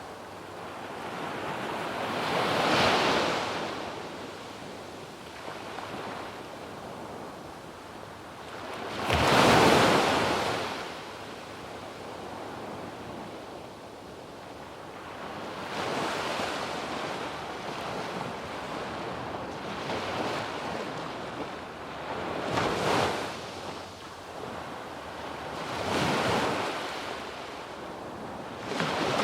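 Waves breaking on a sandy beach, each swell of surf rising and fading every few seconds, the loudest breaks about three and ten seconds in, with a steady wash between them and some wind on the microphone.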